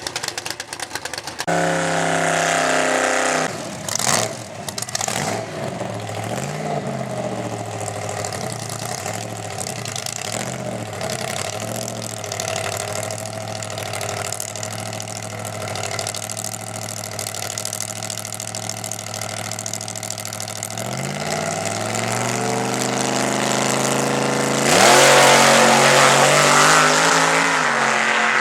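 Supercharged 355 small-block Chevy V8 in a drag truck, running steadily for a long stretch after a brief rev near the start. About three-quarters of the way through its pitch rises over a few seconds, then a sudden, much louder full-throttle run near the end.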